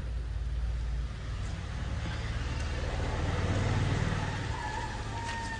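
Maruti Suzuki WagonR's engine idling steadily, a low even hum that swells slightly midway. A faint thin whistle comes in near the end.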